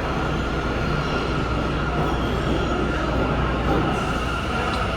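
R179 subway train arriving in the station: a steady rumble with a thin, steady high tone over it.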